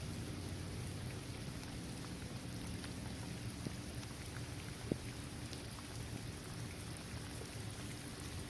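Steady rain falling on a basketball court, trees and grass, with scattered drops ticking and one sharper drop tick about five seconds in.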